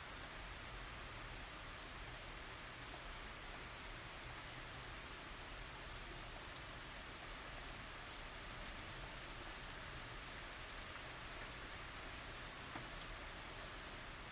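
Steady tropical rain falling, an even hiss with small drop ticks through it.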